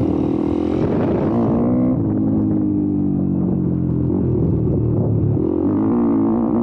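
YCF Bigy 190 pit bike's single-cylinder four-stroke engine under way: revving hard for the first second and a half, then eased off to lower, slowly sagging revs, and opened up again near the end.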